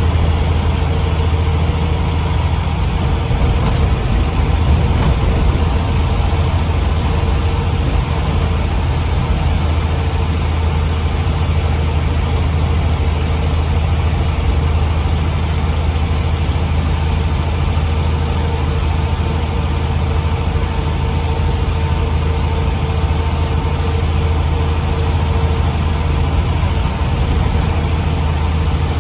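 Scania OmniCity CN94UB bus's nine-litre five-cylinder diesel running at a steady, even note, with a strong low hum that holds level throughout.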